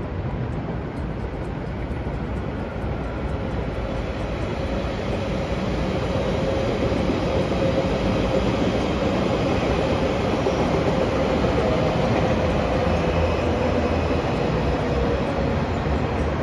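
A train running past, its rumble slowly growing louder, with a faint steady whine in the middle stretch.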